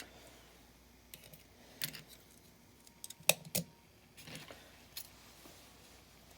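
Small die-cast toy cars being handled: a few sharp clicks and clinks, the loudest a pair about three and a half seconds in, with a short scuff of handling just after.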